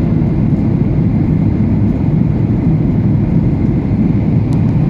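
Malaysia Airlines airliner on landing approach with its flaps being extended: a loud, steady low rumble of engines and airflow.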